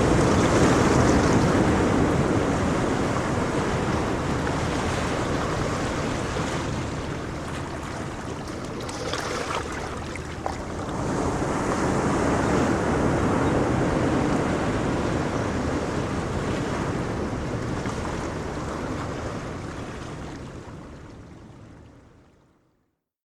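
Sea waves washing onto a shore, a continuous rushing wash that swells twice, about twelve seconds apart. The sound fades out to silence near the end.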